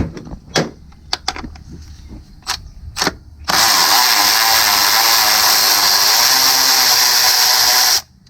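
A few light metal clicks, then a cordless power tool runs steadily for about four and a half seconds and stops suddenly, spinning out a 10 mm bolt.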